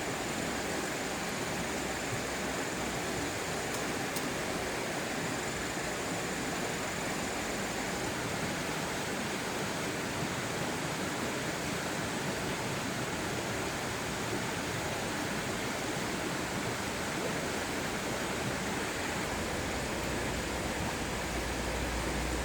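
Steady rush of a stream's running water.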